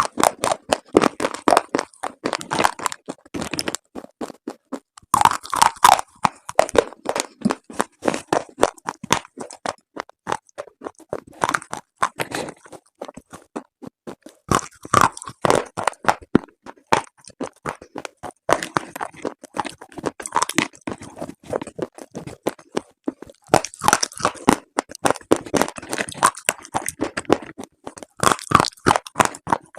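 Slate pieces crunching and crumbling: a dense run of crisp, irregular crackles that come in clusters, some louder than others.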